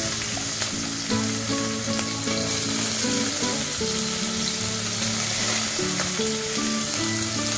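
Sliced onion, whole spices and green chilli sizzling steadily in hot oil and ghee in an aluminium pressure cooker as the onion is dropped in.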